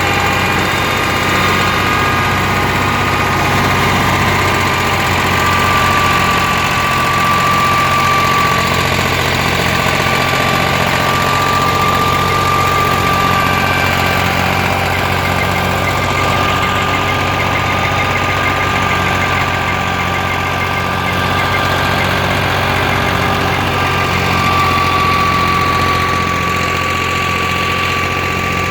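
Fiat 480 tractor's diesel engine running steadily under the load of a wheat thresher, with a steady high whine held over the engine's low hum.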